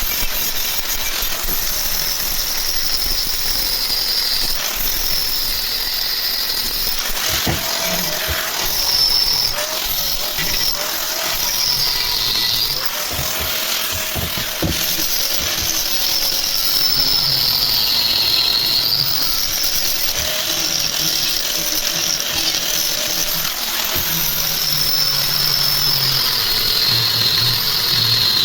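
Electric power tool whining, its pitch sagging and recovering again and again as it comes under load and eases off, with a few knocks in the middle.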